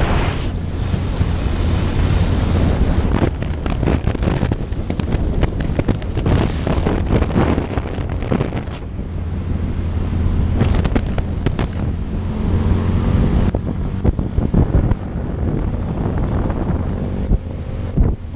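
Motorcycle riding at road speed: wind buffeting the microphone over a steady engine drone, with the engine note rising and falling a little in the second half.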